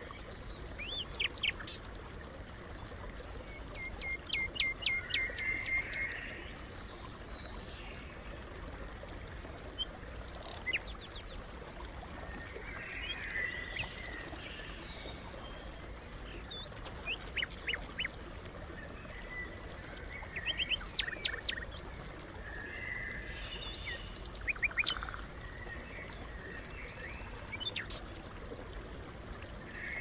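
Small birds chirping and calling in short, quick runs of high notes, a group every few seconds, over a steady low background rumble.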